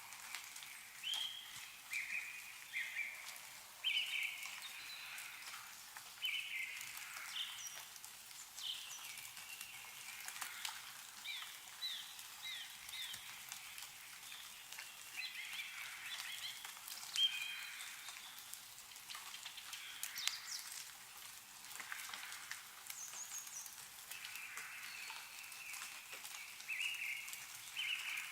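Meltwater dripping and pattering from snow-covered trees, many small sharp drips, with small birds chirping and calling in short repeated phrases throughout.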